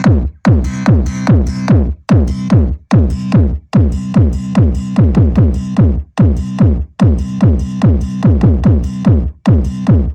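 Electronic dance music with a heavy bass beat played loud through car sound systems. Its falling pitch sweeps repeat about twice a second, with short gaps between phrases.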